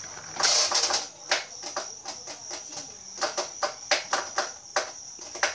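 Drain pump of an Electrolux Turbo Limpeza 6 kg washing machine running with irregular clicks and rattles over a thin, steady high tone. The technician takes the noise for the sign of a burst, damaged pump.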